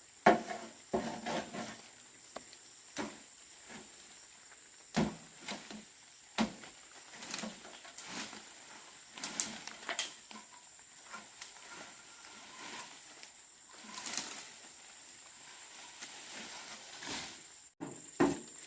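Scattered clicks, knocks and rustles over a steady high insect buzz.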